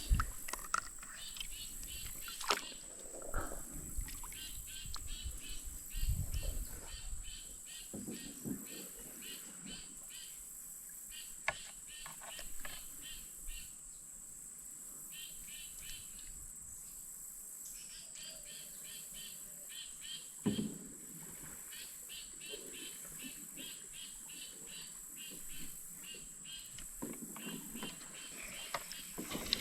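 Rhythmic high chirping, two to three chirps a second, stopping and starting in runs, over a steady high hiss. A few sharp knocks stand out, the loudest about twenty seconds in.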